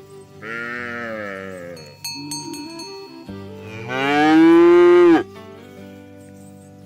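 A cow mooing twice: a shorter call first, then a louder, longer moo that rises and falls and cuts off suddenly, over background music.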